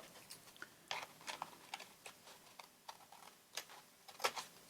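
Faint, short clicks and taps at an uneven pace, from paper being trimmed at the crafting table.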